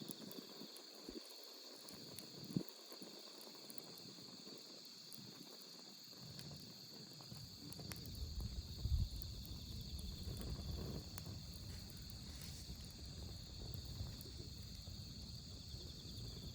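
Wood campfire crackling with scattered small pops, over steady chirring of autumn crickets. About halfway through, a low rumble sets in, with one louder knock a little after that.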